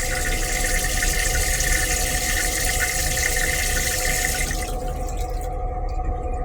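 Water running in a railcar restroom with a steady hiss, cutting off suddenly about four and a half seconds in, over the car's steady low rumble.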